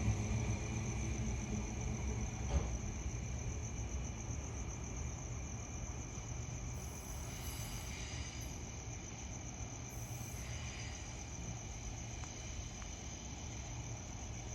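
Night insects chirping in a steady, pulsing high trill over a low, steady rumble, with one brief click about two and a half seconds in.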